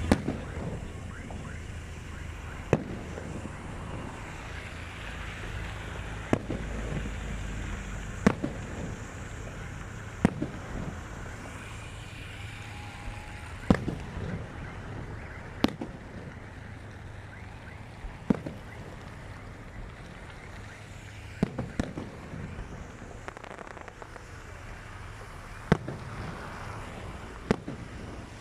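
New Year fireworks going off, single sharp bangs every couple of seconds at irregular intervals over a steady background rumble.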